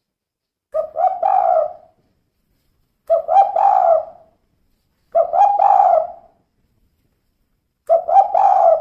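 Female spotted dove cooing. It gives four phrases about two to three seconds apart, each a couple of short notes running into a longer coo, with silence between.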